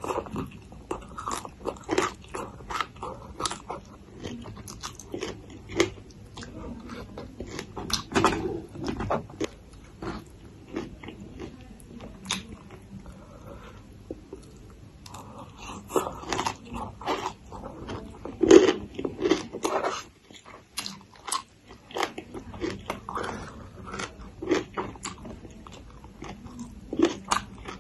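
Close-miked crunching and chewing of spicy papaya salad with raw long beans: crisp bites in irregular crunches, with wet mouth sounds between them and a short lull about two-thirds of the way through.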